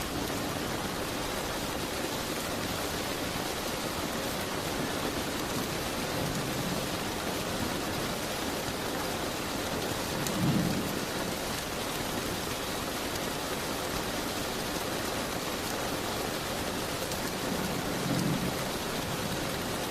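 Steady rain falling, a continuous even hiss, with brief low rumbles about halfway through and again near the end.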